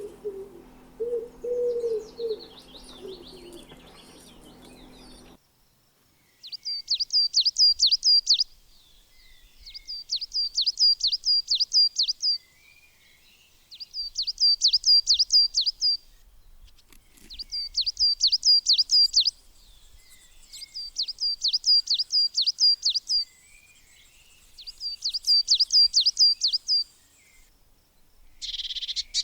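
Birds calling. A low cooing call repeats for the first few seconds; then a songbird sings a short phrase of about eight quick, high, down-slurred notes six times over, each phrase about two seconds long with a pause of a second or two between.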